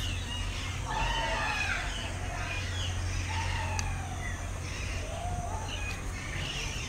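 Birds calling: a run of short calls rising and falling in pitch, heard over a steady low hum.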